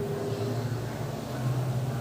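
Indistinct voices over a steady background hum.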